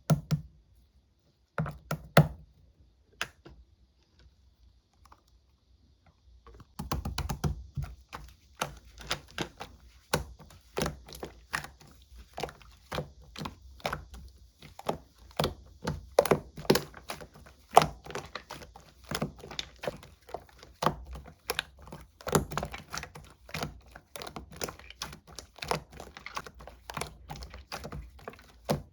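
Slime being pressed and squished by hand, giving sharp clicking and popping sounds. A few clicks come at first, then after a short pause a steady run of about two a second.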